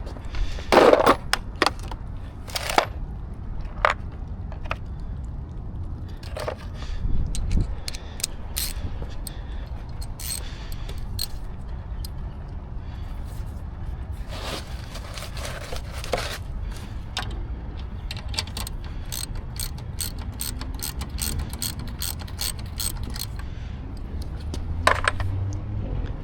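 Irregular metallic clicks, clinks and scrapes of hand tools and parts being worked, some in quick clusters, over a steady low rumble.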